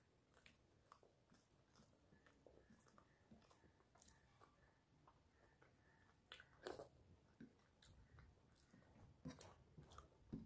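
Faint chewing of a mouthful of soft khichdi eaten by hand, with scattered small mouth clicks; a couple are louder, about two-thirds of the way in and near the end.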